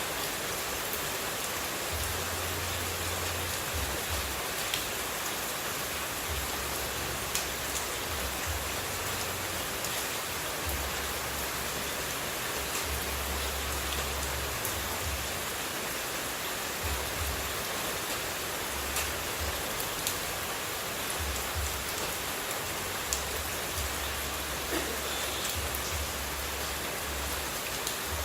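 Steady hiss of falling water, rain-like, with faint scattered droplet ticks; a continuous white-noise water track.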